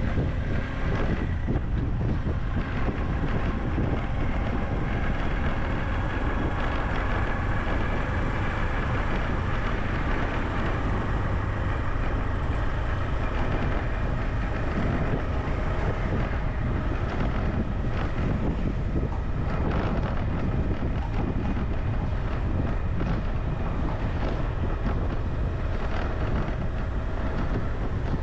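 Steady low rumble mixed with wind buffeting the microphone, with faint steady tones above it, like a motor running.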